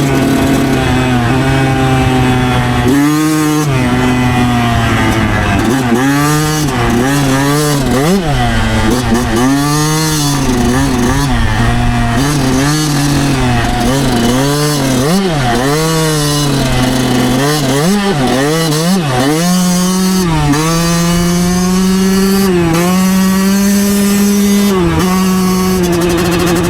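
2009 Yamaha YZ125's 125 cc two-stroke single-cylinder engine under riding load. The throttle is rolled on and off over and over, so the pitch keeps swooping down and back up through the middle. Near the end it holds a steadier, higher note.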